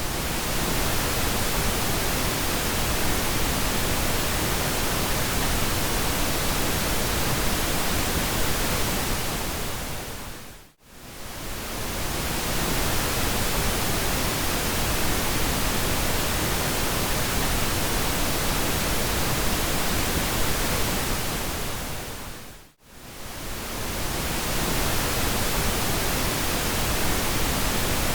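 Steady pink noise, an even hiss spread from the deep lows to the highs. It fades out to near silence and straight back in twice, about twelve seconds apart.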